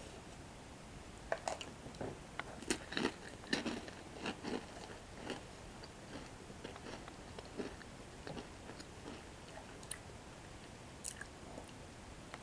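Close-up biting and chewing of crunchy toasted bread sticks coated in cocoa cream: a run of sharp crunches in the first half, thinning to occasional softer crunches.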